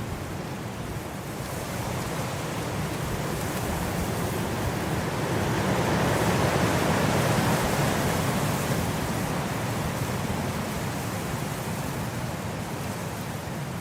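Blizzard wind blowing, a gust that swells to its loudest about halfway through and then slowly eases off.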